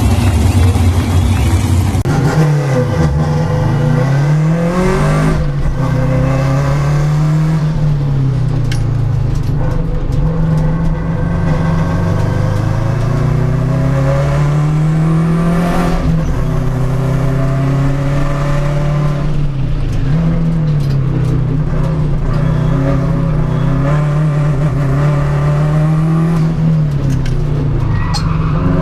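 Race car engine at high revs, its pitch repeatedly falling and climbing again as the car lifts off and gets back on the throttle.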